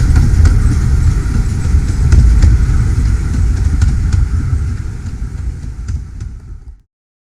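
Low, steady rumble of a moving vehicle with scattered sharp clicks, fading over the last couple of seconds and cutting off suddenly near the end.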